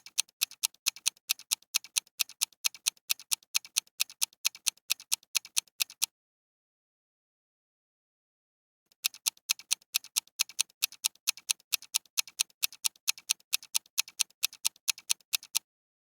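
Ticking-clock sound effect used as a quiz countdown timer: quick, sharp, evenly spaced ticks, several a second. The ticking breaks off for about three seconds around the middle, then starts again.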